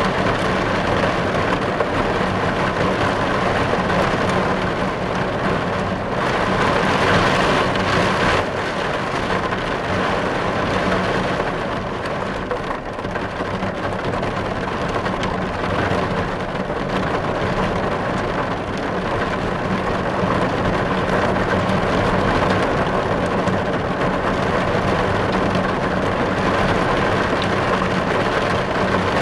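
Heavy rain drumming on a car's windows and windscreen, heard from inside the car as a dense, steady hiss that swells briefly about seven seconds in.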